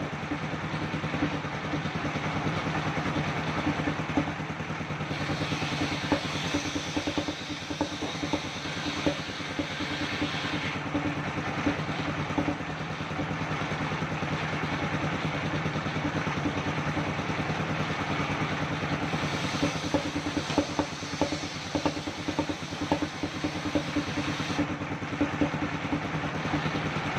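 Engine-driven circular sawmill running steadily. A louder, higher hiss rises twice, for several seconds each, about 5 and 19 seconds in, as the blade works through kenanga wood.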